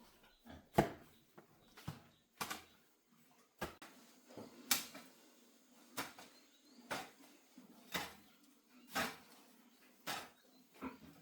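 Hoe chopping into the ground, a sharp thud about once a second, eleven strokes in a steady working rhythm.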